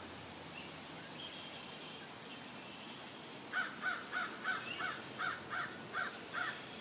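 A bird calling: a quick run of about ten short calls, about three a second, begins about halfway through. Fainter chirps come earlier.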